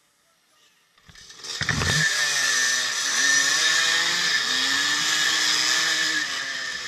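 Two-stroke dirt-bike engines, the rider's own 1984 Yamaha IT200 loudest among a pack, come in suddenly about a second and a half in and are revved hard as the bikes pull away from the start. The engine note rises and falls repeatedly.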